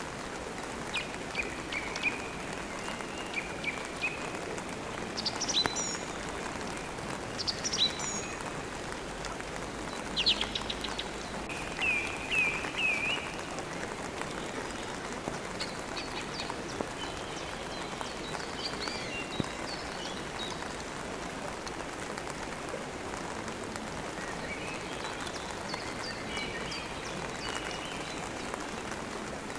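Steady rain with birds chirping and twittering on and off through it, in several short bouts of high calls.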